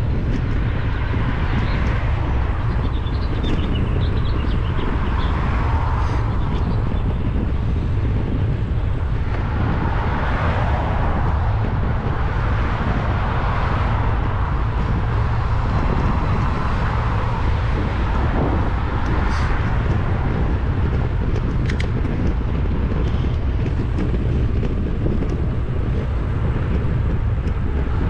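Wind rumbling on an action camera's microphone while cycling, with road traffic passing alongside in swells that rise and fade every few seconds.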